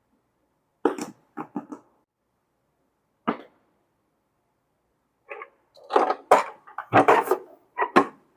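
Toy play set pieces and packaging being handled in an unboxing: short clicks and rustles, a few about a second in, one near the middle, then a dense run over the last three seconds.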